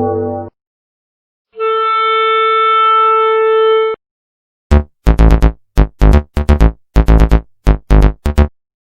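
Two short stock sound effects. First a steady electronic tone is held for about two seconds. Then, after a brief gap, comes a quick run of a dozen or more loud, sharp hits with a deep low end.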